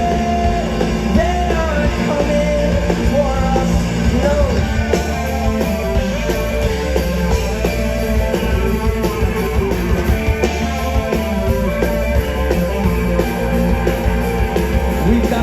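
A live rock band playing loudly through a PA, with a full, dense mix of amplified instruments and no break in the sound.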